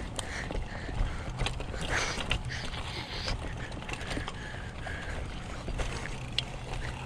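A bicycle being ridden on a trail: clicks and rattles from the chain and freewheel over a steady low rumble of riding noise.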